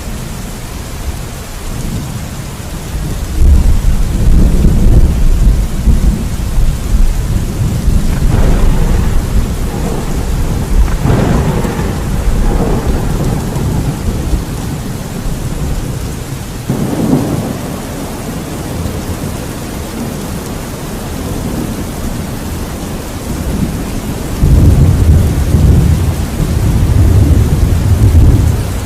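Steady heavy rain with rolling thunder: deep rumbles swell a few seconds in and again near the end, with sharper cracks of thunder in between.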